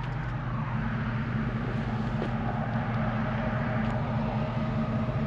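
1968 AMC AMX's 390 V8 idling steadily and smoothly, with no shaking, as it warms toward operating temperature.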